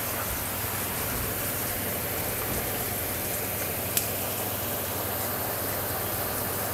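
Heavy typhoon rain falling steadily, a dense even hiss, with one sharp tap about four seconds in.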